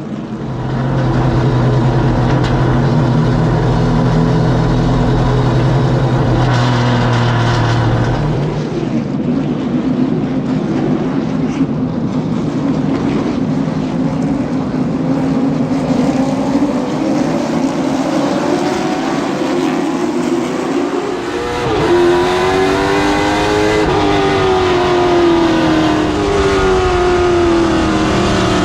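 Race car engines running on the track. They hold a steady pitch at first, then rise and fall in pitch over the last several seconds.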